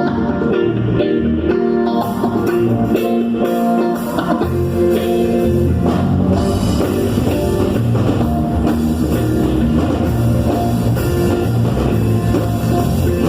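Live worship band playing an instrumental passage: guitar with bass and drum kit in a rock style. The bass and drums come in fuller about four seconds in.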